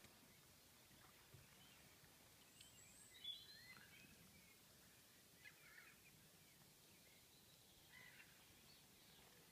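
Faint birdsong: a few scattered chirps and short whistles, the clearest about three seconds in, over a quiet outdoor background.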